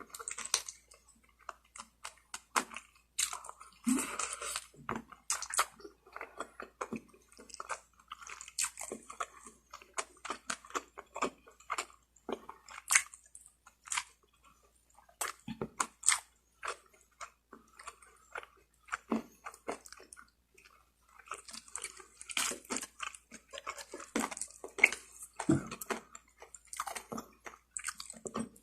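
Close-miked eating sounds: someone biting and chewing roast chicken, with irregular crunches and crackles of crisp skin and wet smacking of the mouth.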